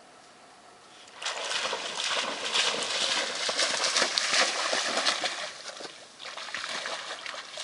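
A dog splashing through shallow water to fetch a stick. The splashing starts about a second in, goes on loud and choppy, dips briefly near the end, then starts again.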